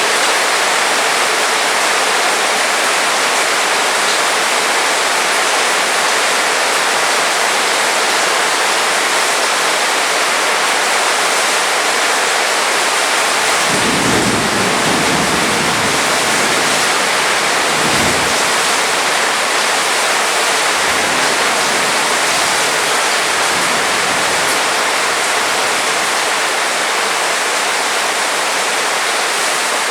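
Heavy rain falling in a steady hiss. About halfway through, a low rumble of thunder rolls in for several seconds, with a stronger peak a few seconds later, then fades.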